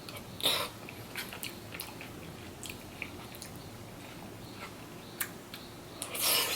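A person chewing and biting food close to the microphone, with soft wet mouth clicks. There is a louder short noise about half a second in and another near the end.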